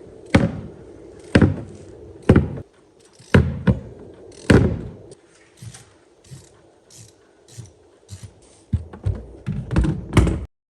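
Sharp knocks and thunks of a tool and hands working against the outboard mounting bolts inside a fibreglass bass boat's battery compartment. About six hard knocks come in the first five seconds, then softer taps and a quick run of knocks near the end, before the sound cuts off suddenly.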